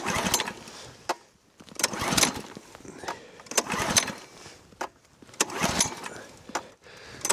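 Cold small engine on a snow machine being cranked over and over, a stroke about every two seconds, without catching. The engine is frozen.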